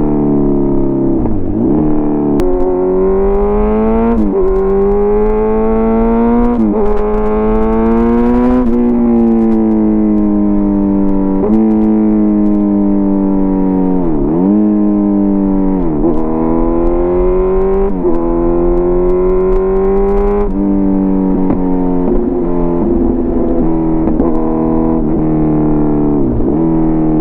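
Kawasaki Z900 inline-four engine through an SC Project CRT aftermarket exhaust, riding under load. Revs climb and drop sharply several times in the first nine seconds as it shifts up through the gears, then the note sinks slowly and rises again with more gear changes.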